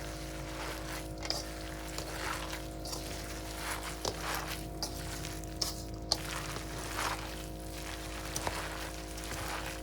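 A hand squishing and mixing wet grated-potato latke batter in a bowl, in repeated short squelches with a few small clicks, over a steady low hum.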